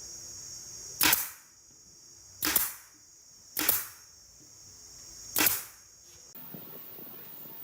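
Four sharp bangs, each dying away quickly, spaced about one to two seconds apart. A steady high whine runs underneath and cuts off suddenly near the end.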